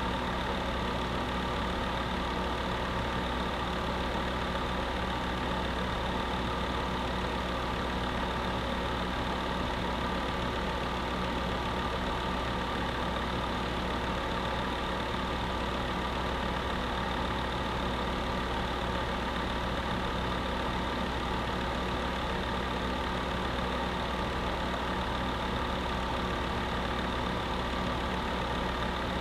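Electric space heater running steadily: an even fan whoosh with a constant hum of several steady tones, no change throughout.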